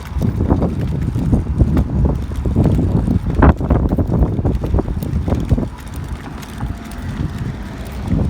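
Wind buffeting the microphone in irregular gusts while someone walks, rolling a measuring wheel along the ground. The gusts ease somewhat after about five and a half seconds.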